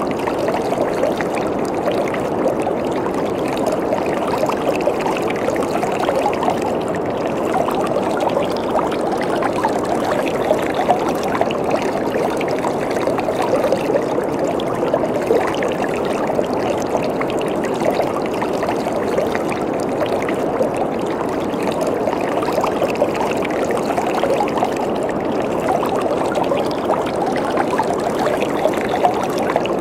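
Waterfall: water falling and splashing in a steady, continuous rush with a fine flickering, bubbling texture.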